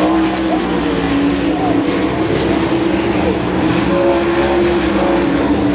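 Several sprint car V8 engines running together around the track, a steady, loud drone whose pitches waver as the cars circulate.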